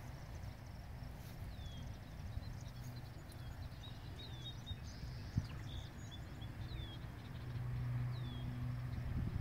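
A bird calling with short, high chirps that fall in pitch, about one a second, over a steady low hum. One sharp knock about five seconds in.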